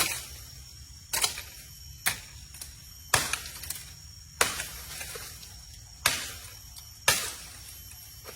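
Wood being chopped: seven sharp cracking strikes, roughly one a second with one longer pause midway, each dying away quickly.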